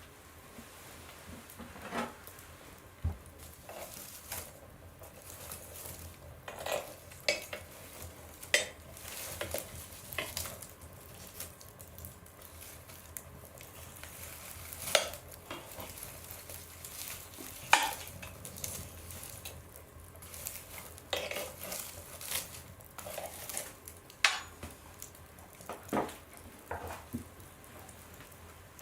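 Wood fire crackling in a stove: irregular sharp pops and snaps over a faint steady hiss, a few of them louder than the rest.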